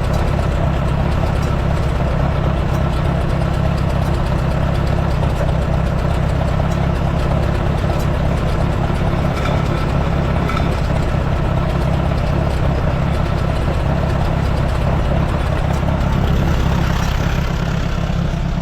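1948 Allis-Chalmers C tractor's four-cylinder engine running steadily, its belt pulley turning a flat belt to a feed grinder.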